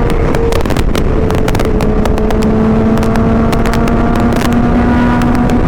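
Supercharged Kawasaki Ninja H2 inline-four with a Vandemon exhaust running at a steady cruise, its engine note holding a nearly even pitch. Heavy wind noise buffets the microphone over it.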